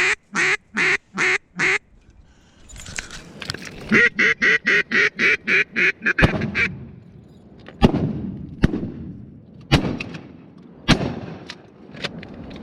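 Two runs of loud, evenly spaced mallard quacks, about four a second, the second run faster and longer. From about six seconds in come several sharp shotgun shots with echoing tails, spread over the next six seconds.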